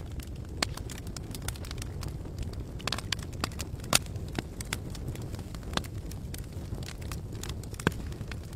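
Campfire crackling and popping, with sharp pops scattered over a steady low rush of burning. The loudest pops come about four seconds in and near the end.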